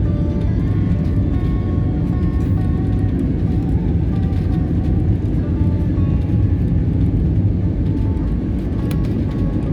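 Steady airliner cabin noise: an even, loud low rumble of engines and rushing air, with faint short tones above it.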